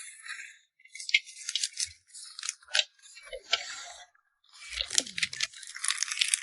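Packaging being handled while packing photocards: crinkling and rustling in several short bursts, with sharp clicks and taps inside them.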